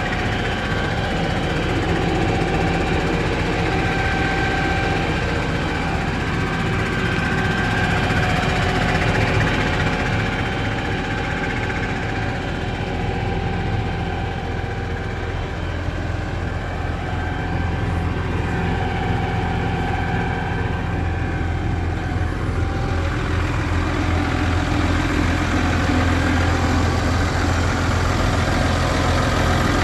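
Case Puma 200 CVX tractor's six-cylinder diesel engine running steadily at idle. Its low drone grows a little louder over the last several seconds.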